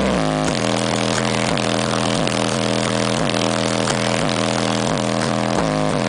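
Competition car-audio system playing a bass-heavy demo: a short, falling, buzzy pattern repeats about twice a second at high volume.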